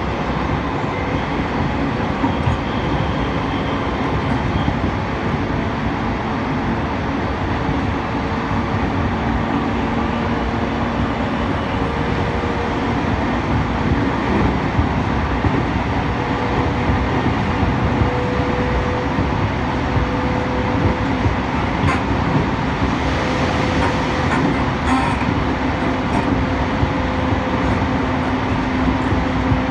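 Onboard running noise of an E231 series electric train: steady rolling rumble with faint motor tones slowly rising in pitch and occasional light clicks from the rails.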